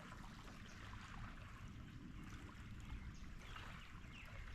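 Faint lakeshore ambience: a steady low rumble of wind on the microphone with soft water lapping.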